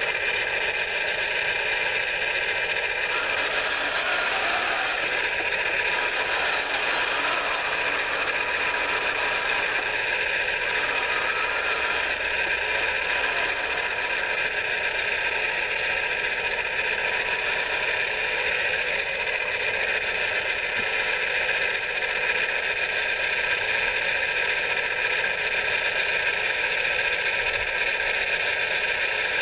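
Small electric motors and gearing of radio-controlled model construction machines running steadily with a constant whine and some rattle.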